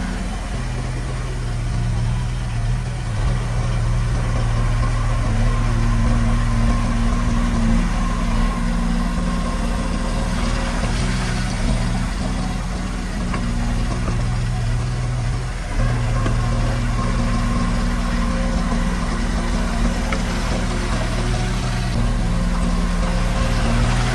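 Komatsu D31P bulldozer's diesel engine running steadily under work, its note dipping briefly and coming back a few times.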